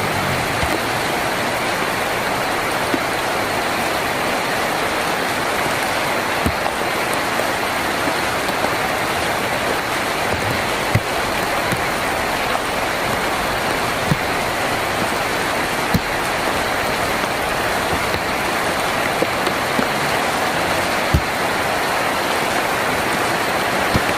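Heavy rain on a tin roof: a steady hiss of rain with a few sharper single ticks every few seconds.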